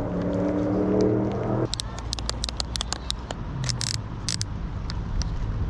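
Car engine running with a steady hum that stops abruptly about a second and a half in, followed by a run of sharp clicks and rattles.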